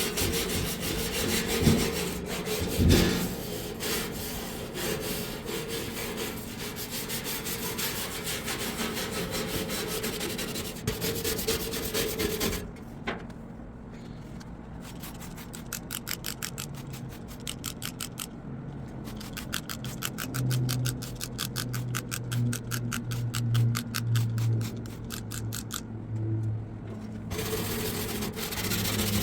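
Scrubbing a sticky patio table top by hand with rapid back-and-forth rubbing strokes. About halfway through the strokes turn duller and evenly paced, several a second, and the fuller scrubbing returns near the end.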